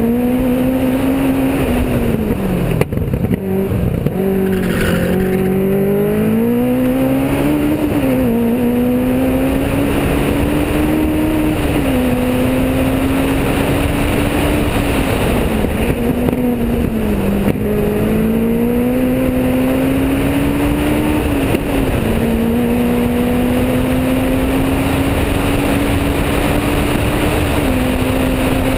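Rally-prepared VW Polo 8V's eight-valve four-cylinder engine driving hard up a hillclimb, its pitch climbing slowly and then dropping sharply every few seconds at gear changes and lifts for corners. Heard from a camera mounted outside on the car's flank, with steady wind and road noise under the engine.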